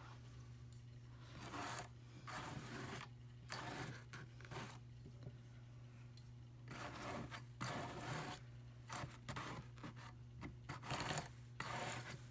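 Hand-cranked Brother drum carder with fine carding cloth brushing through Targhee wool: irregular runs of dry, scratchy rasping as the fiber is drawn over the wire teeth, stopping and starting every second or so. A low steady hum sits underneath.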